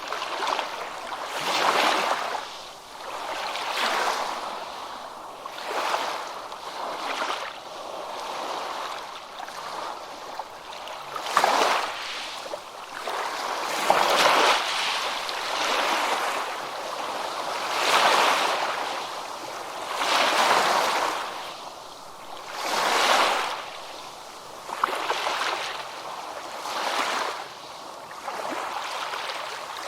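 Small ocean waves breaking and washing up on a beach, the surf rising and falling in a new swell every two to three seconds.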